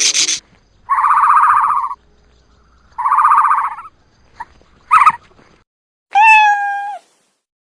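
A series of animal calls: two buzzy, rattling calls of about a second each, a couple of short chirps, then one longer call that dips in pitch and holds steady.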